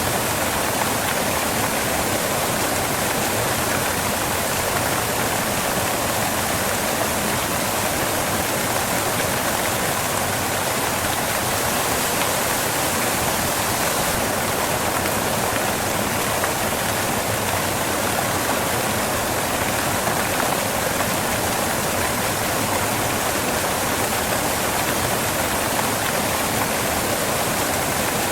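Waterfall crashing onto rocks: a steady, even rush of falling water.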